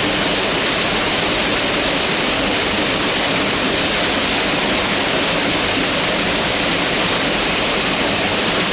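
Mountain river rushing steadily over rocks, a loud continuous roar of white water.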